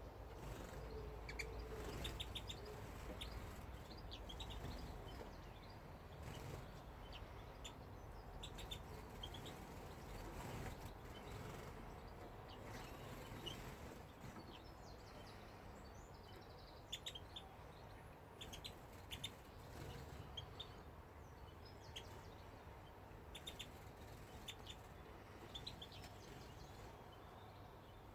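Small aviary birds chirping faintly: short, high calls and tweets come and go throughout, over a low background hiss.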